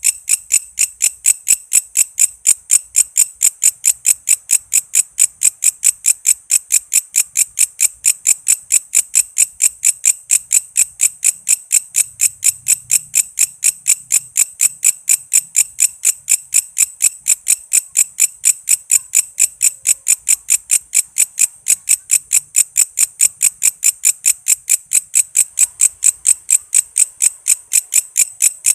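Walang kece, a singing insect, chirping in a steady, even rhythm of about four sharp, high-pitched chirps a second.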